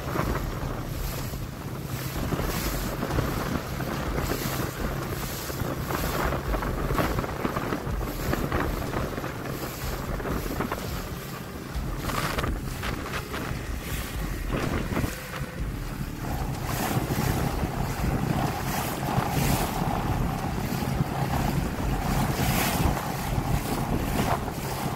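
Small boat under way on choppy water: a steady motor hum under wind buffeting the microphone and water slapping the hull. A steady higher tone joins the hum about two-thirds of the way in.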